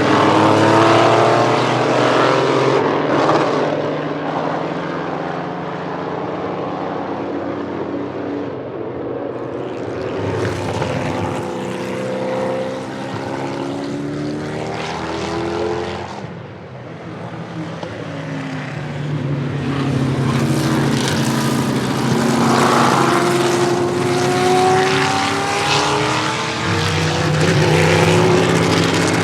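Vintage Indy race cars at full throttle accelerating out of a corner and passing one after another, several engine notes overlapping, each rising in pitch through the gears. The sound eases for a moment past the middle, then builds again as more cars come through.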